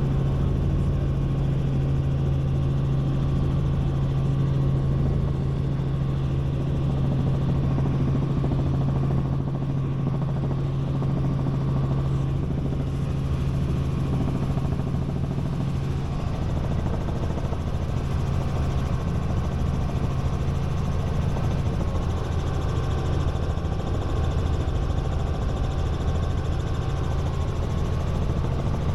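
Robinson R44 Raven I helicopter in cruise flight: the steady drone of its six-cylinder piston engine and rotors with a strong low hum, which weakens somewhat about halfway through.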